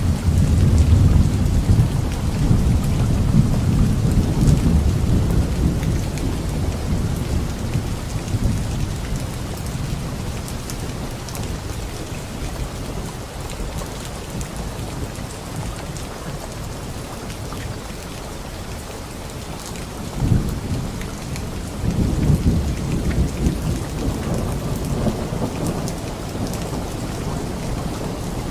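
Light rain falling steadily on leaves, with rolling thunder. A long low rumble at the start fades over several seconds, and renewed rumbles come about twenty seconds in.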